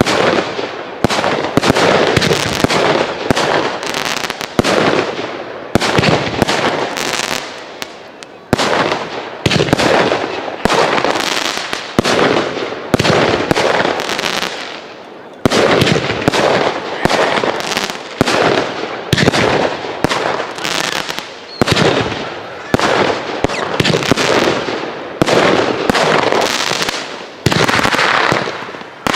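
Aerial fireworks display: a rapid series of shells bursting one after another, about one or two a second, each sharp bang trailing off in crackle and echo, with short lulls about eight and fifteen seconds in.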